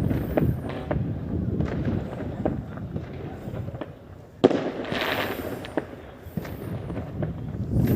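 Fireworks going off: a string of bangs and pops, the loudest about four and a half seconds in, followed by a crackling hiss.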